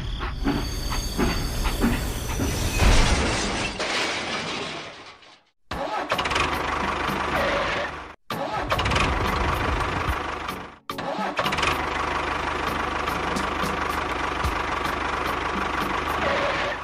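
A small motor or engine running steadily, heard in four stretches broken by abrupt cuts, with rapid clicking over the first few seconds.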